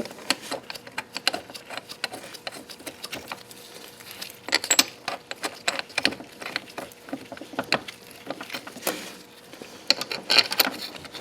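Scattered metal clicks and clinks of bolts and hand tools being handled while fitting engine mount and bracket parts, with two denser runs of quick clicking, one about four and a half seconds in and one near the end.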